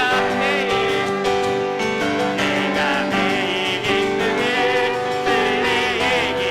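Church praise team singing a worship song with vibrato, over continuous piano accompaniment.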